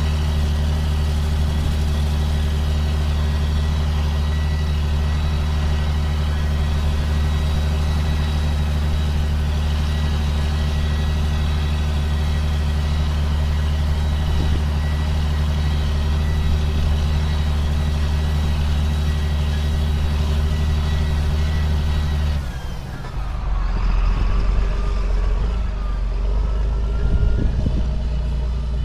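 A John Deere self-propelled sprayer's diesel engine runs steadily at a constant speed. About 22 seconds in, the sound changes abruptly to a lower rumble with faint wavering whines.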